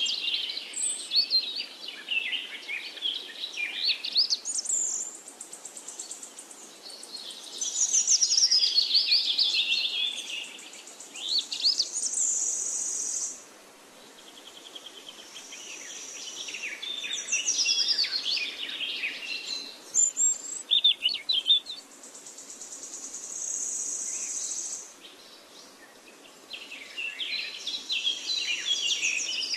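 Birdsong: a run of chirps, whistles and trills that sweep up and down, coming in phrases with short gaps, and a steady high insect-like buzz twice in between.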